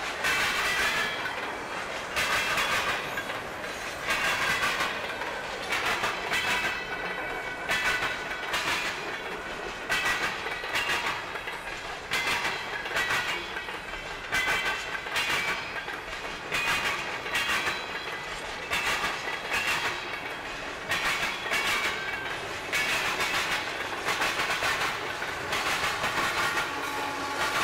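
Railroad cars rolling past, their wheels clacking over the rail joints in a steady repeating rhythm of about one clatter every second and a half, with some metallic ringing from the wheels.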